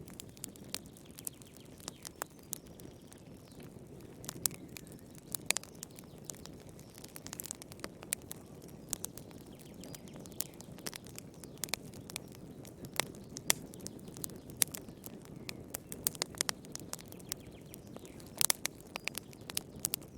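Wood fire crackling in a fireplace: irregular sharp pops and snaps over a low, steady rush of burning, with a quick flurry of pops about eighteen seconds in.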